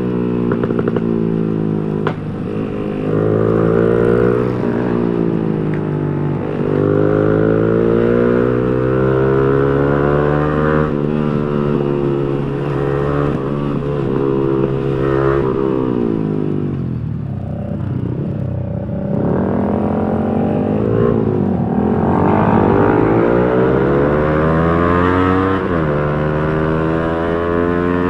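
Yamaha R15 V3's single-cylinder engine through an aftermarket Villan racing exhaust while riding. The pitch climbs as it revs up through the gears and drops at each shift, several times over, with a stretch of lower revs in the middle before it pulls up again.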